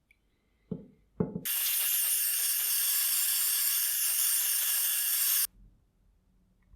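Two light knocks, then a steady hiss of spraying air for about four seconds that cuts off suddenly.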